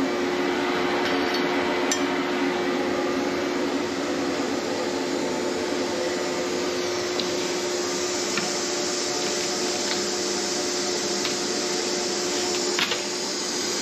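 Packing-line machinery running with a steady hum, broken by a few sharp metallic clicks and knocks, the loudest near the end.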